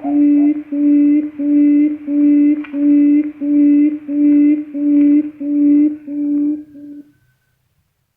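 Recorded quail lure call: a steady series of about a dozen short, low hoots, about one and a half a second. The last hoots fade, and it stops about seven seconds in.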